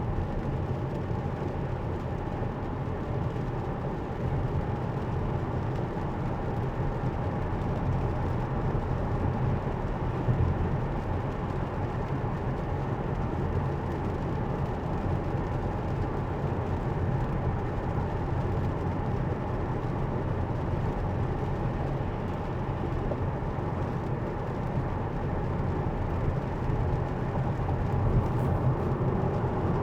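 Steady tyre and road noise heard inside a Tesla's cabin while it drives at freeway speed on a wet road, with no engine note.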